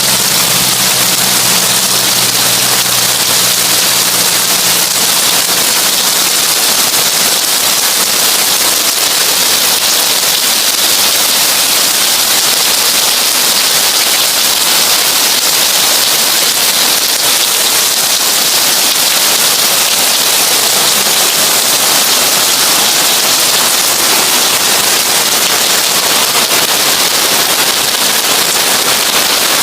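Heavy rain drumming on a tin roof: a loud, steady, dense hiss with a crackling patter of drops on the metal. A low hum is faintly heard under it for the first few seconds, then fades out.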